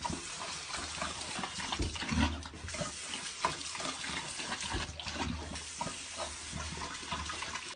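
Water: a steady hiss broken by many small irregular splashes and clicks.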